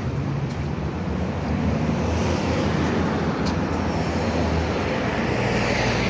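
Street traffic: a steady low rumble of vehicles, with the tyre hiss of a passing vehicle growing louder near the end.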